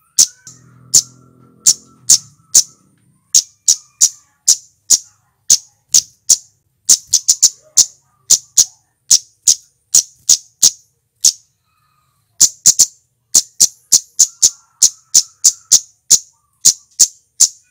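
Male flowerpecker (cit keres) giving a rapid string of short, sharp, high-pitched 'tsit' calls, about two to three a second, with a brief pause around the middle.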